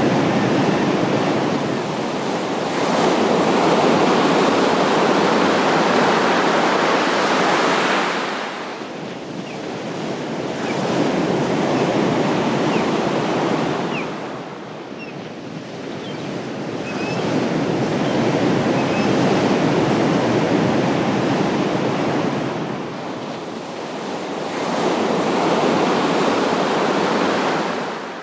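Ocean waves breaking and washing on a shore, a steady rushing surf that swells and ebbs about every five to six seconds.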